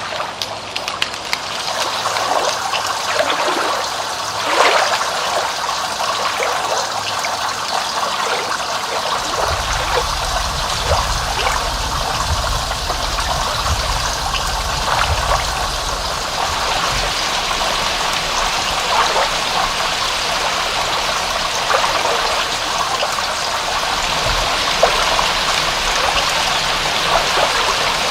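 Water trickling and splashing steadily, with many separate drips and splashes over the constant wash, as in rain running off or a small stream. A low rumble joins underneath about a third of the way in.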